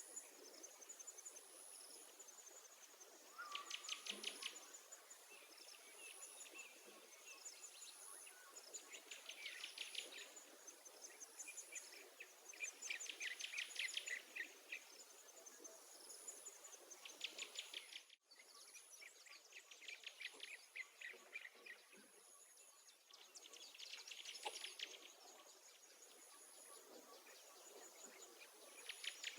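Faint chorus of insects and small birds: short, rapid high trills come every few seconds over a thin, high, evenly pulsing buzz.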